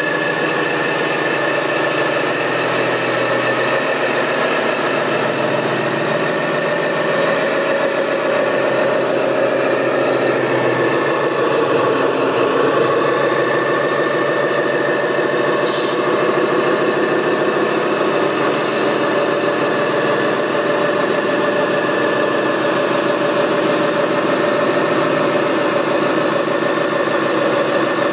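Remote-controlled model construction machines running: a steady engine-like drone with a constant motor whine, and two short hisses about two-thirds of the way through.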